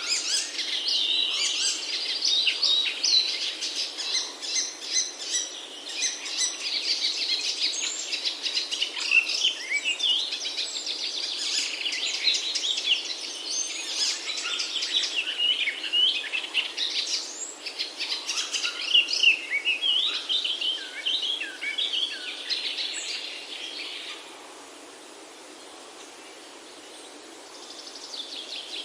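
Several songbirds chirping and warbling together over a faint steady hiss of outdoor background noise; the birdsong dies away a few seconds before the end, then briefly picks up again.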